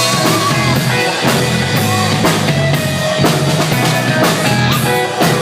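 Live pop-rock band playing an instrumental passage between sung lines: a steady drum-kit beat with guitars and bass.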